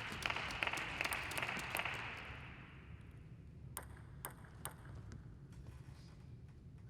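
Audience applause fading out over the first two seconds. Then three sharp, light taps of a table tennis ball about half a second apart, with quiet hall tone between.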